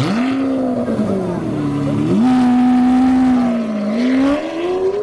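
Lamborghini Aventador S's V12 through an Fi valved exhaust, held at high revs. The note sags for about two seconds, jumps back up and holds steady, then dips and climbs again near the end.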